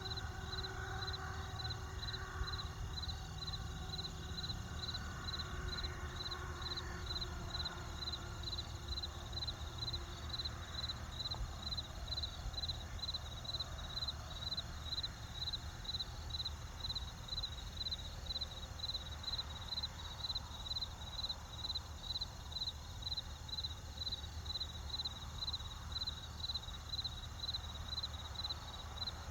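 Crickets chirping in a steady, even rhythm of about two high chirps a second, over a low steady rumble.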